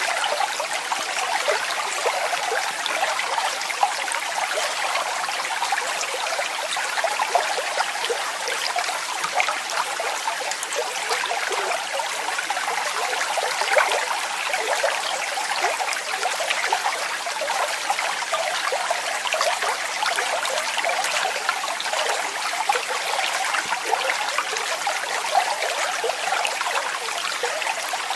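Waterfall: water falling and splashing steadily, an even rushing hiss made of many small splashes, with little deep rumble.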